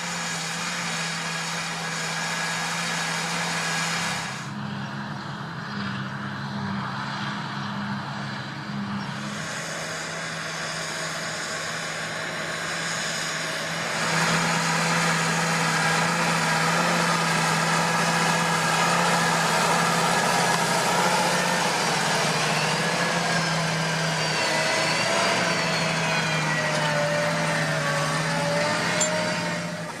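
John Deere 8360R tractor's six-cylinder diesel engine running steadily under load while pulling a plough. It grows louder about halfway through, and a faint high whine wavers in pitch over the second half.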